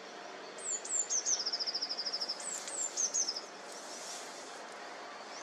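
A songbird singing: a couple of high notes sliding downward, then a fast, even trill of about a dozen notes. A second, shorter phrase of the same kind follows about two and a half seconds in, over a faint steady outdoor hiss.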